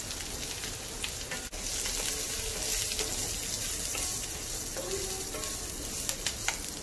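Coconut pieces, green chillies, curry leaves and urad dal sizzling in hot oil in a kadai while being stirred with a spatula. The sizzle is a steady hiss that grows brighter about a second and a half in, with occasional sharp clicks of the spatula against the pan.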